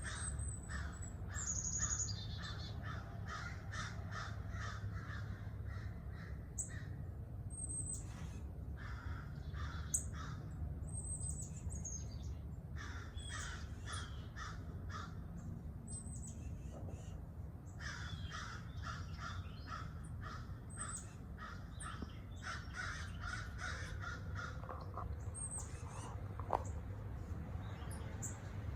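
Wild birds calling: several runs of harsh, rapidly repeated notes, about four a second, mixed with short high chips, over a steady low rumble.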